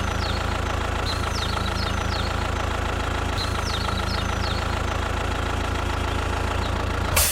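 A small engine running steadily at idle, cutting off suddenly near the end.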